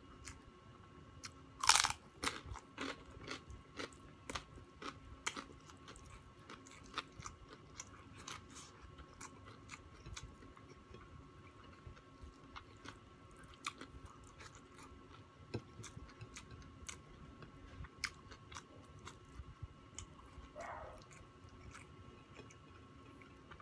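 Close-up crunching bite into crispy fried pork (chicharon), one loud crunch about two seconds in, followed by many smaller crunches of chewing that thin out. A brief hummed murmur from the eater near the end.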